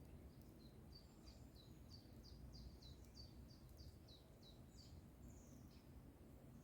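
A small songbird singing faintly: a run of quick, high, downward-sliding chirps, about three a second, ending in a longer note, over a low steady rumble of outdoor background noise.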